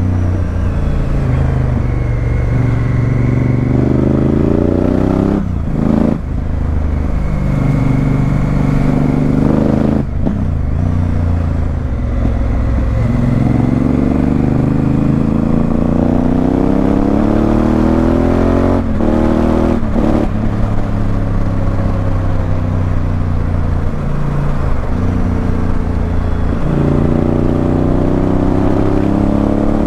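Honda Africa Twin CRF1000L parallel-twin engine through a Remus aftermarket exhaust, accelerating through the gears: the revs climb, cut briefly at upshifts about 6 and 10 seconds in and twice around 19–20 seconds, then hold fairly steady, with wind and road noise underneath.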